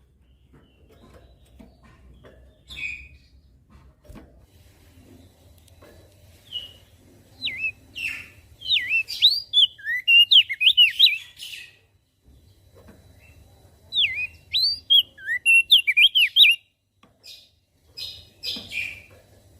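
Crested white-eye (opior jambul) singing: two bursts of rapid, swooping whistled notes, one beginning about eight seconds in and one about fourteen seconds in, with a few shorter chirps around them, over a faint low hum.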